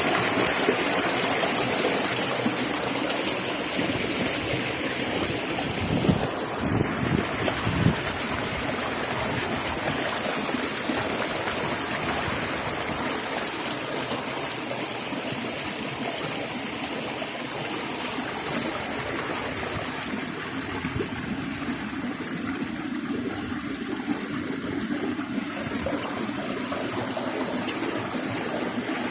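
Flowing stream water running and trickling steadily, with a steady high-pitched hum above it.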